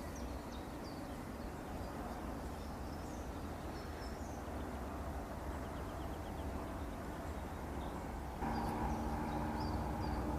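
Small birds chirping over a steady low rumble. About eight seconds in, a steady droning hum with several held tones starts suddenly and runs on.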